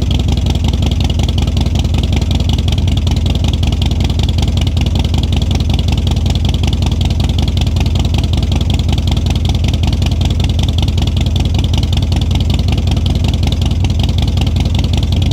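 2015 Harley-Davidson Dyna Street Bob's Twin Cam 103 V-twin idling steadily through Vance and Hines Twin Slash slip-on mufflers, with an even, unchanging exhaust pulse.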